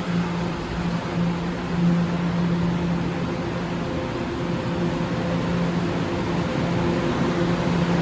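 Subway train in the station giving off a steady low electrical drone over a rushing noise.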